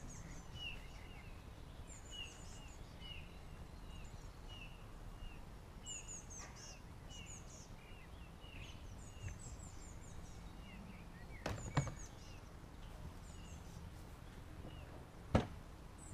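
Birds singing: one repeated short chirp, about two a second, over higher twittering. Two sharp knocks about twelve and fifteen seconds in.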